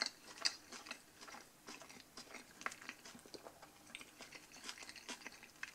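A person chewing a mouthful of chili cheeseburger (bun, beef patty, jalapeños, cheese): faint, irregular soft clicks and small crunches.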